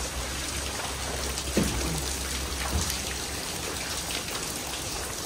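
Steady pouring rain pattering, with a few faint knocks from debris underfoot.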